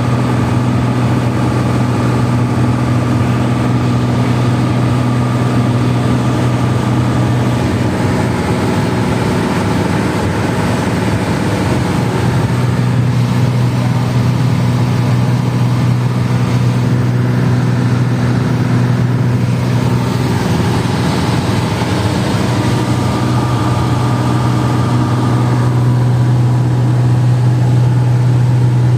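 Airliner cabin noise: the steady drone of the jet engines and rushing air, with a strong low hum that weakens for a few seconds twice, about a third and about two thirds of the way through.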